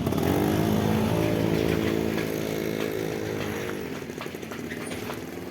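A motor engine running loud and steady, its pitch rising at the start, then dropping as it fades about four seconds in.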